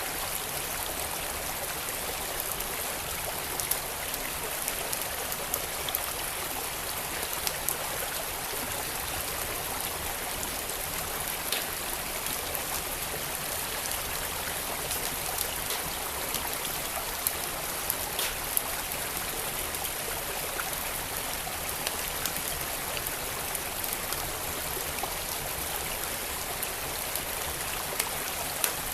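Steady rush of a flowing creek, with scattered sharp crackles and pops from a fireplace fire burning.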